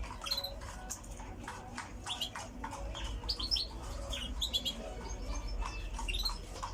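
Small cage birds chirping: short, high chirps coming in quick scattered clusters.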